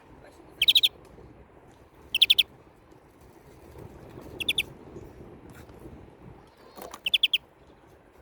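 European greenfinch calling: four short bursts of rapid chattering notes, each about a third of a second long, spaced a second or two apart.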